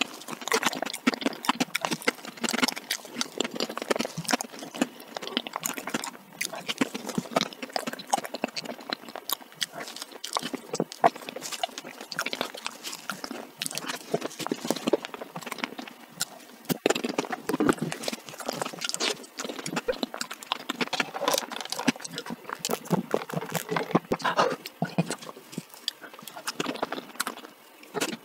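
Close-up mouth sounds of eating soft chocolate cake: wet chewing and lip smacking, a dense run of small clicks and squelches.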